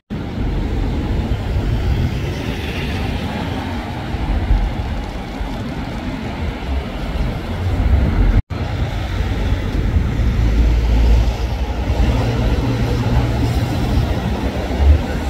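City street traffic noise: a steady mix of passing cars and engines, dropping out to silence for an instant about eight seconds in.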